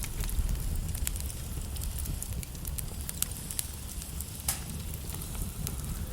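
Log fire crackling, with scattered sharp pops over a steady low rumble; one louder pop about four and a half seconds in.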